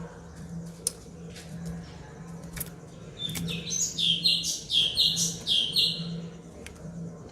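White-rumped shama (murai batu) singing: a few sharp single chips, then from about three seconds in a fast run of loud, clear high notes lasting about three seconds.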